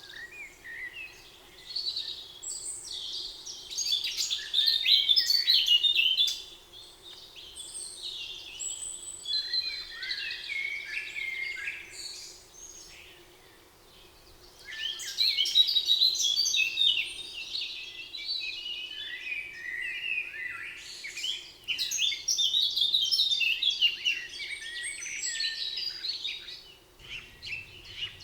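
Several songbirds singing in a spring forest: overlapping chirps and warbled phrases of a few seconds each, with brief lulls, over a faint steady hum.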